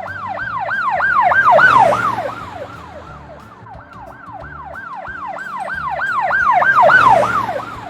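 Police car siren in a fast rising-and-falling yelp, about three or four cycles a second. It grows louder and fades away twice.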